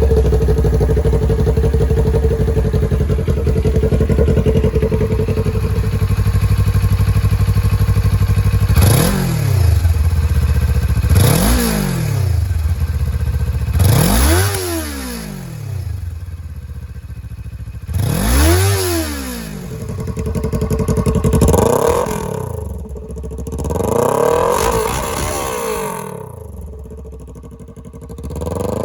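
Kawasaki Ninja 400 parallel-twin engine with the muffler removed, idling steadily for about eight seconds, then revved in a series of short throttle blips, each a quick rise and fall in pitch, every two to three seconds.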